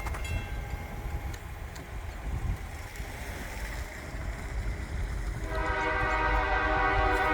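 Low rumble of an approaching Canadian Pacific diesel freight locomotive, then about five and a half seconds in its multi-chime air horn starts sounding, held steady and growing louder.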